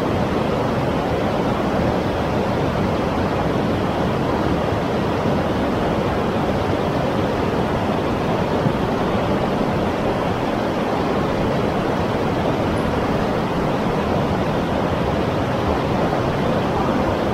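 River waterfall and rapids rushing steadily: a loud, even wash of falling white water.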